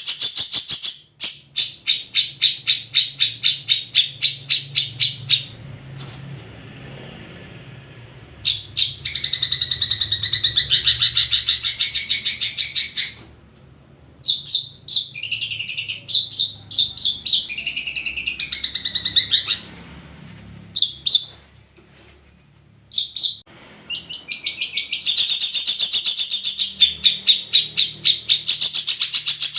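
Long-tailed shrike (cendet) singing: a run of rapid, evenly repeated sharp notes, then dense, varied high song phrases broken by short pauses.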